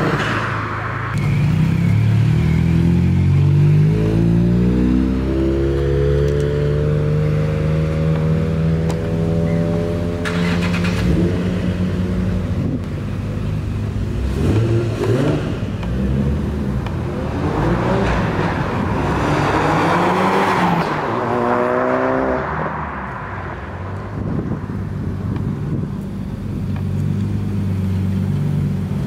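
Car engines accelerating away from a meet: about two seconds in, one engine's pitch climbs steadily for several seconds and then levels off. Around twenty seconds in, another car revs up quickly. Low, steady engine running continues underneath.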